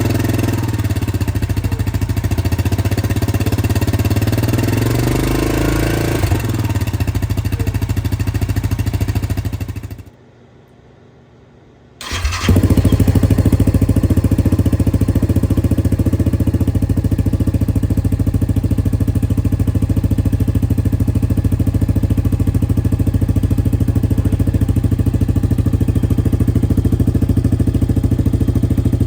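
Yamaha Kodiak 700 ATV's single-cylinder engine running through its exhaust, its speed drifting up and down a little. It stops about ten seconds in, and after a short gap starts again with a sharp onset and then idles steadily.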